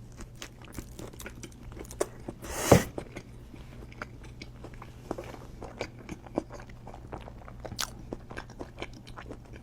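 Close-up sounds of a man biting into and chewing a hot dog: many small wet mouth clicks, with one louder crunching bite about three seconds in.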